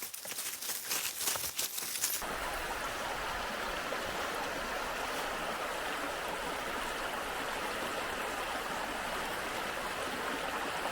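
Steady rushing of a river's flowing water, starting abruptly about two seconds in, after a couple of seconds of scattered clicks and rustling.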